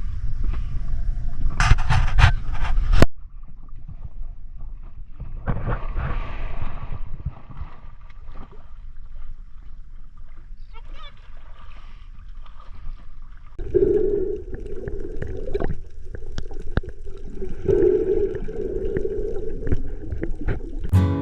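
Water sounds: a burst of loud splashing about two seconds in, cutting off abruptly, then muffled sloshing and gurgling water.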